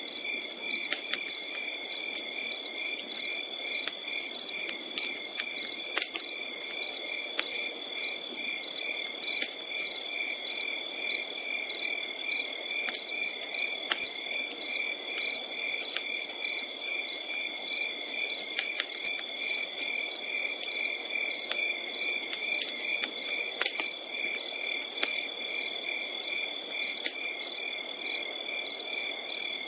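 Crickets chirping: one insect trills without a break while others chirp in even pulses about twice a second. Scattered sharp pops and crackles of a campfire sound over a soft hiss.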